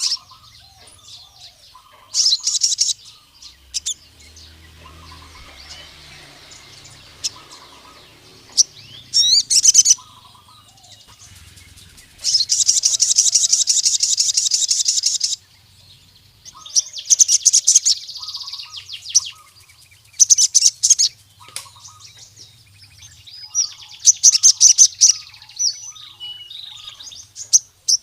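Male sogon (a sunbird) singing in repeated bursts of rapid, high chirping trills with short pauses between them. The longest burst lasts about three seconds, midway through. In the title, this song is a male calling to challenge a rival.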